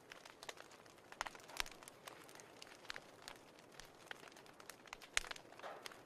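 Wood fire crackling, with irregular sharp pops; the loudest pop comes about five seconds in.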